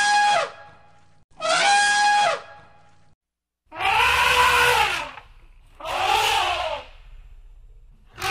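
Elephant trumpeting: five loud calls of about a second each, the first two clear and brass-like on a steady pitch, the next ones harsher and noisier with a rise and fall in pitch.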